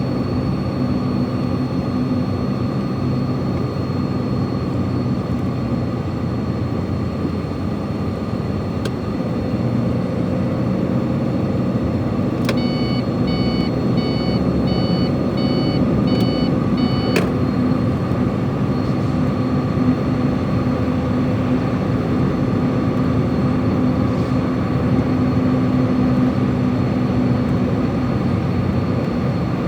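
Truck engine running steadily, heard from inside the cab on a downhill mountain road. About halfway through, an electronic beep repeats about eight times over some five seconds.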